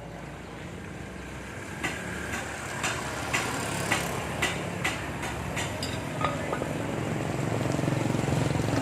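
A motor hum that grows louder toward the end, with a run of sharp clicks and taps, roughly one or two a second, through the middle.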